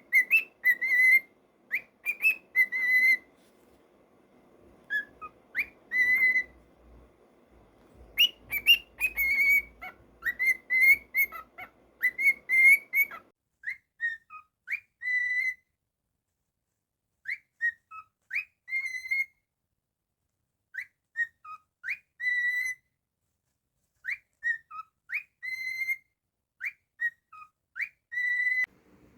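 Cockatiel whistling a tune in short clear notes, some sliding up or down, grouped in phrases with brief pauses between them.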